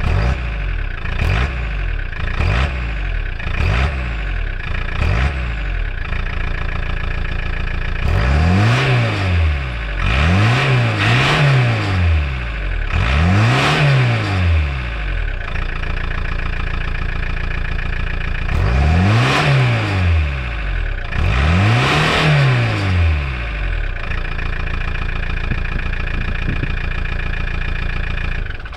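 Rover 220 turbodiesel engine at the tailpipe of a stationary car, idling and being revved. First come about four quick blips of the throttle, then about six longer revs that climb and fall back, before it settles to a steady idle.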